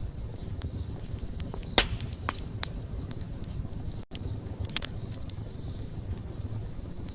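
Wood fire crackling: a steady low rumble of burning with sharp pops and snaps, the loudest about two seconds in and a cluster of smaller ones around it.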